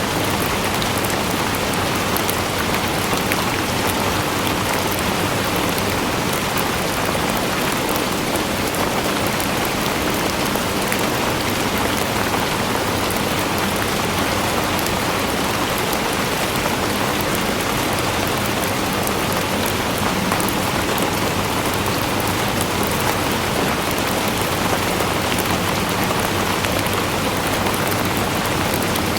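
Steady rain falling onto surfaces, a dense even hiss with fine pattering of drops and no change in strength.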